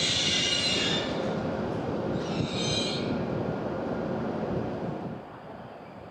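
Shinkansen train running past on the track, a steady rushing rail noise with a high hiss that eases about a second in, flares briefly in the middle, and falls away near the end.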